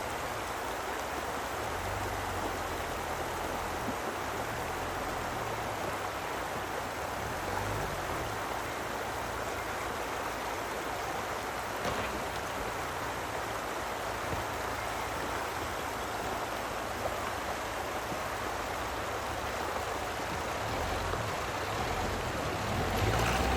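River water rushing steadily, with a low rumble underneath, growing louder over the last couple of seconds.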